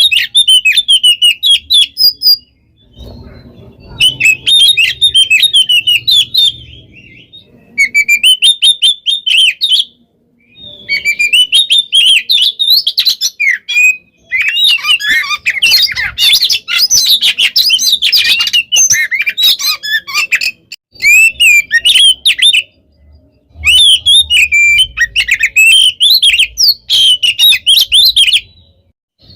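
Oriental magpie-robin (kacer) singing a loud, dense 'gacor' song of rapid chirps, trills and sharp notes. It comes in bouts of a few seconds with brief pauses between them.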